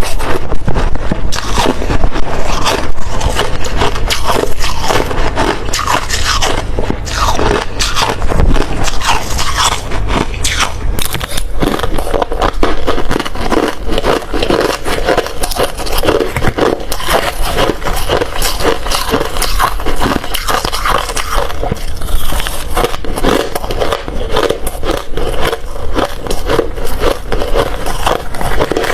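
Hard ice being bitten and chewed close to the microphone: a dense, continuous run of loud crunches and crackles.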